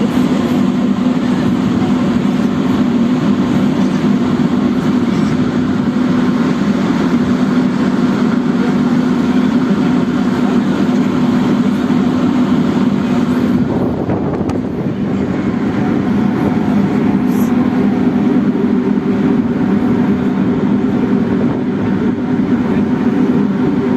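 Ferry engine running steadily, a constant low drone with a slight dip about halfway through.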